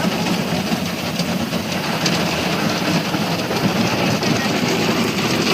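Automatic car wash working over a car, heard from inside the cabin: a steady rushing, rumbling noise of water and washing equipment against the car body.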